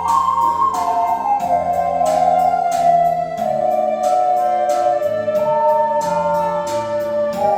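An ocarina ensemble playing a slow melody together in long held notes, over a piano-like keyboard accompaniment with a steady beat.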